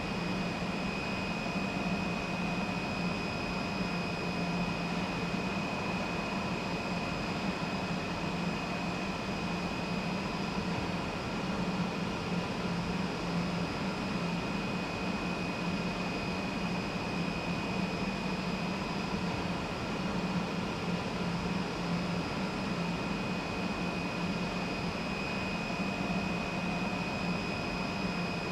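Steady hum of a steel hot-dip galvanizing line's machinery, with a low drone and a constant high whine over an even noise.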